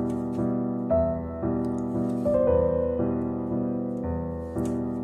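Slow background piano music, with held notes changing about once a second.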